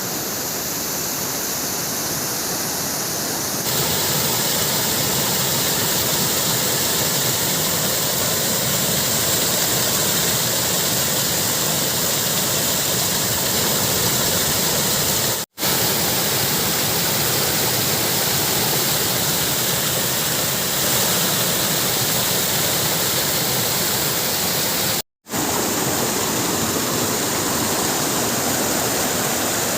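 Waterfall, a steady rushing of falling water that gets a little louder about four seconds in and breaks off for an instant twice at cuts.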